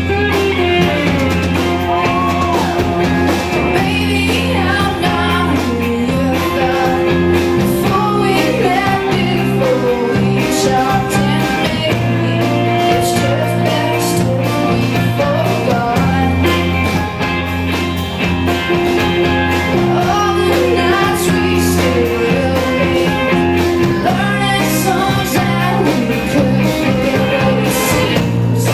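Live rock band playing: a lead vocalist singing over electric guitars, bass and drums with steady cymbal hits.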